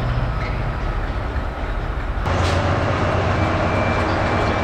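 Train at a station: a low, steady rumble that about halfway through gives way suddenly to a louder, fuller running noise with faint steady whines.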